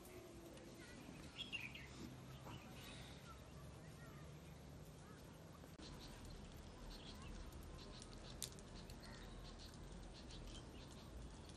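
Faint birds chirping in the open air, a few scattered calls early on and more frequent short chirps in the second half.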